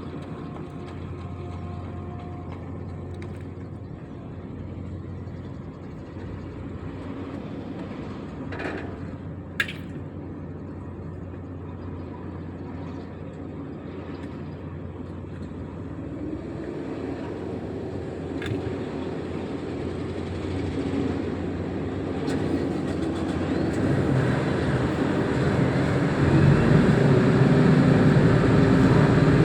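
Heavy diesel engine of a container reach stacker running, growing louder over the last several seconds as it works harder or comes closer. There is one short, sharp clink about ten seconds in.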